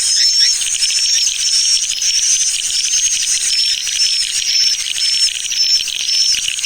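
Swiftlet lure call recording: dense, loud, high twittering of swiftlets, with a short high chirp repeating about twice a second over a buzzing chatter, the kind of call played to draw swiftlets into a bird house.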